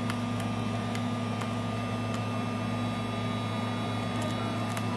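Steady low machine hum with a faint high whine running underneath, and a few faint ticks.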